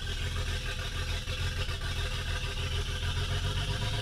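2008 BMW 335i's N54 twin-turbo inline-six running steadily at idle on its first start after an engine swap, with no exhaust hooked up.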